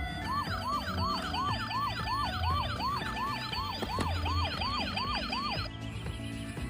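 Electronic siren in a fast yelp, each note sweeping up and down about three times a second, over background music with a steady beat; the siren cuts off suddenly near the end.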